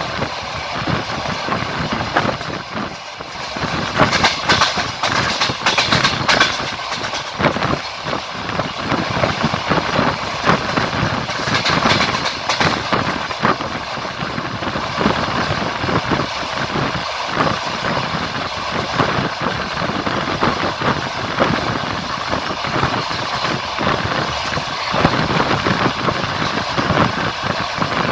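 Moving train, its wheels clattering over the rail joints under a steady rumble and many short clicks, louder for a few seconds about four seconds in and again around twelve seconds.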